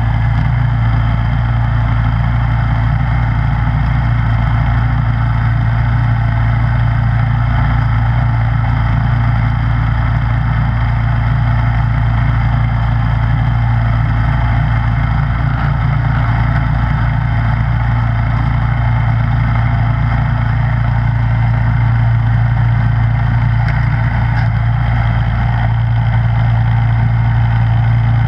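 Snowblower engine running steadily at an even speed, a constant low drone with no change in pitch.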